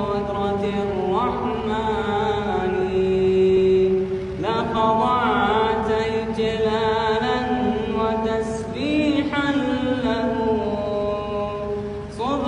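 A man singing an unaccompanied Arabic nasheed in long drawn-out phrases, each held note a second or more long with ornamental turns, the phrases breaking twice, about four seconds in and near the end.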